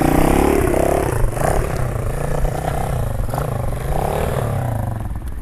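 Pit bike engine revving. Its pitch rises through the first second, then goes up and down with the throttle.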